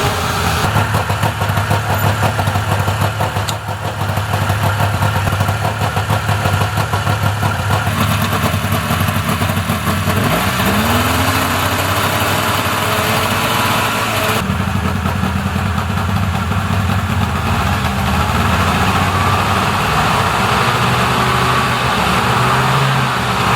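Subaru R-2's 360cc two-stroke twin engine idling steadily. A single tone rises and levels off about ten seconds in.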